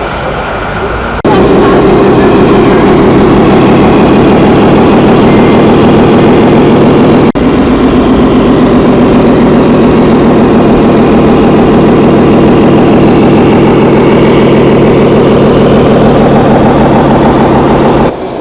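Diesel truck engine sound from a 1/14-scale RC truck's sound module, running steadily with a rapid firing pulse. It starts abruptly about a second in, breaks off for an instant about a third of the way through, and stops abruptly near the end.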